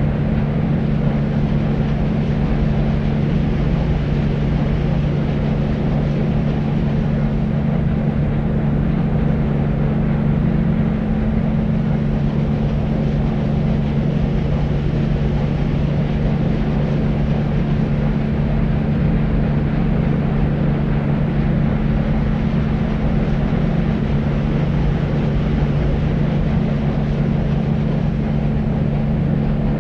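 Deep white noise, a steady low rumbling hiss with a constant low hum running through it, unchanging throughout.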